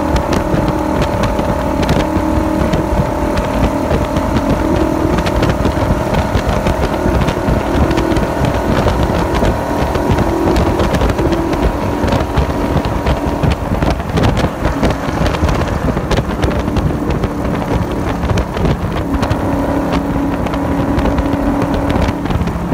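AC Cobra V8 running hard at high speed on a race track, with wind buffeting the microphone in the open cockpit. The engine note changes a few seconds before the end as the car slows from about 120 to 101 mph.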